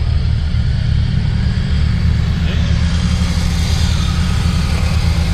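Old Jeep Cherokee's engine running under load while driven off-road, a steady low rumble.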